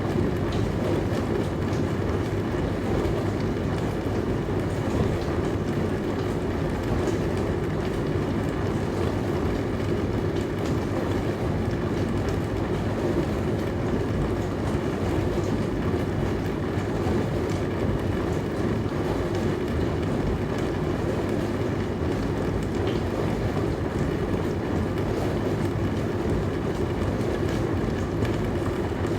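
Dishwasher running: a steady low hum and wash noise that holds even, with no breaks or changes.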